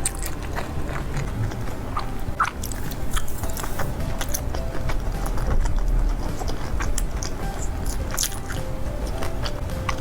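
A person biting and chewing food close to the microphone, with many small wet mouth clicks. Soft background music plays under it.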